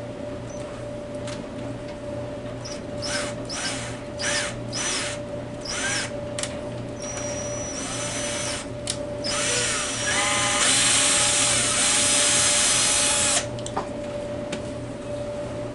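Power drill run in a series of short trigger pulses, the motor whining up and back down with each one. About ten seconds in, a longer, louder run lasts about three seconds and then cuts off suddenly.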